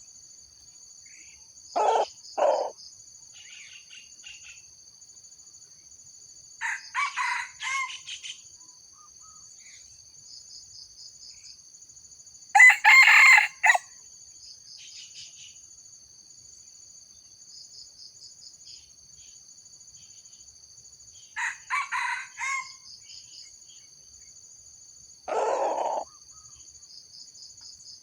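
Junglefowl crowing several times in short, clipped crows, the loudest about halfway through, with shorter low calls near the start and near the end. Insects trill steadily underneath.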